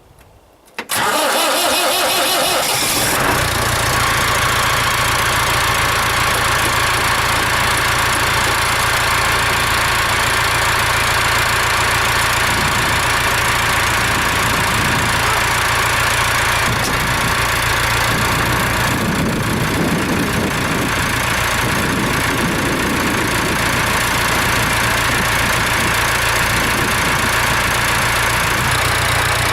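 Landini tractor's Perkins diesel engine cold-starting. It cranks from about a second in, catches after about two seconds and settles into a steady idle.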